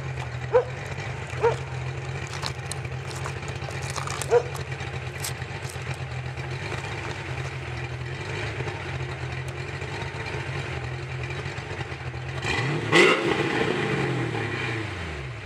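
1995 Mustang Cobra's 308 cubic inch V8, with a Steeda #19 cam and Bassani exhaust, idling with a lumpy cam chop, then given one quick rev about twelve and a half seconds in that falls back to idle. Three short, sharp, loud sounds stand out over the idle in the first five seconds.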